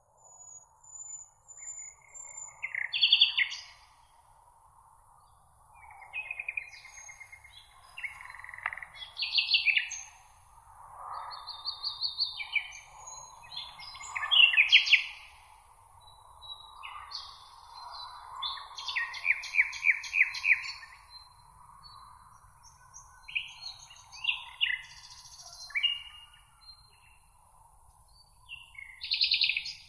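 Several songbirds singing, with overlapping short trills, chirps and whistled phrases every second or two over a faint steady high hiss.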